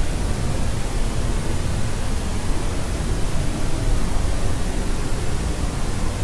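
Steady sleep-aid noise, even and unchanging, weighted toward the low end, with no pitch, rhythm or crying in it.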